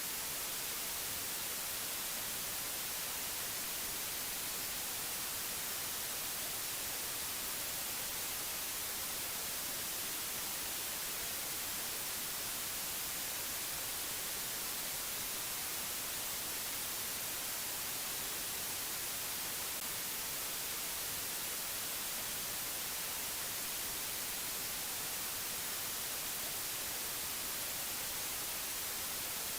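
Steady white-noise hiss, strongest in the high frequencies and unchanging, with no tones or events in it.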